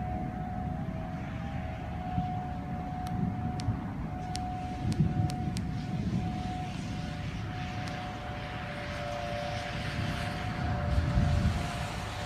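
Distant outdoor tornado warning sirens holding a steady, unbroken tone. Under them, storm wind rumbles on the microphone in gusts, swelling about five seconds in and again near the end.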